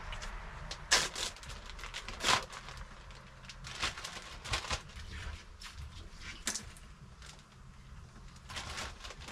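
A handful of sharp clicks and knocks spread a second or so apart over a faint low hum, like things being picked up and set down.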